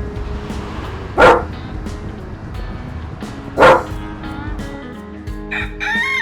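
Background music with a dog barking loudly twice, about a second in and again at about three and a half seconds. Pitched, gliding animal calls begin near the end.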